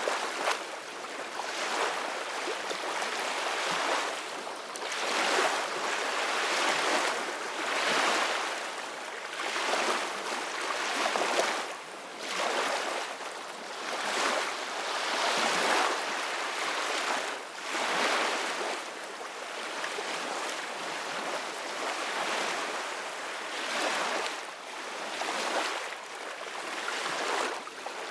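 Ocean waves washing onto shore in a steady surf, the rush swelling and fading every couple of seconds.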